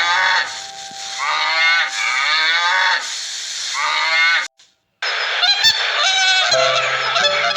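An animal calling in honk-like cries that slide down in pitch, in three bouts. The sound cuts out briefly near the middle, and a noisier passage with steady tones follows.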